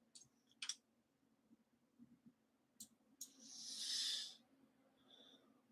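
A few sparse computer mouse clicks, single and in a quick pair, with a short soft hiss about three and a half seconds in, under a faint steady hum.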